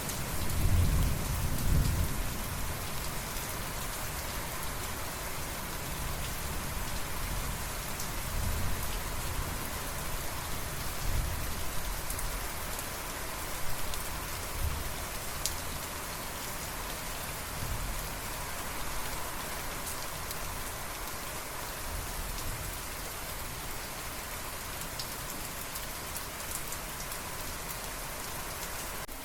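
Steady rain falling on surfaces, an even hiss with scattered drop ticks. Low rumbles of thunder swell in the first couple of seconds, and fainter low rumbles return now and then.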